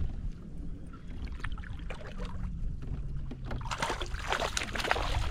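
Water splashing and sloshing at a kayak, over a steady low wind rumble on the microphone; the splashing grows louder and busier near the end.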